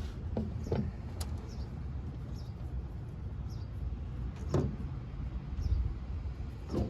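Scattered clicks and short scrapes from handling the grill's temperature-probe wire while it is secured with a zip tie, over a steady low rumble.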